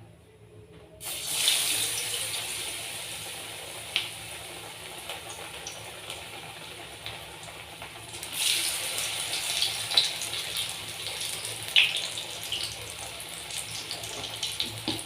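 Capsicum-and-chicken pakoras sizzling as they fry in hot oil in a kadai, the sizzle starting suddenly about a second in and swelling again about eight seconds in, with a few sharp crackles.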